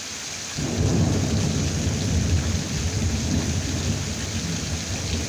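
Thunder rumbling over steady heavy rain; the low rumble rolls in about half a second in.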